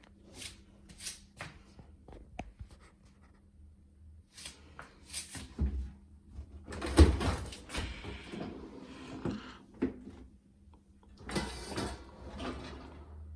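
A Bosch dishwasher's door and racks being handled, with scattered knocks, clicks and rattling. The loudest clatter comes about seven seconds in, and another follows near the end.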